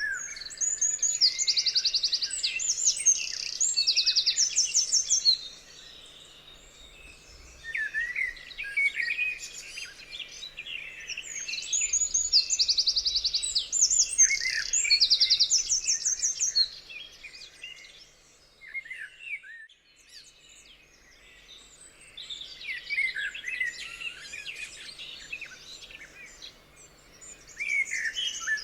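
Several songbirds singing together, a chorus of chirps and fast high trills in bursts. The singing thins to a lull about two-thirds of the way through, then picks up again near the end.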